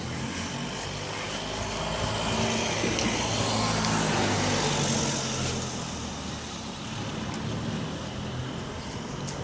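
Motor vehicle noise: a steady engine hum under a broad traffic rush that grows louder from about two to five seconds in, then eases.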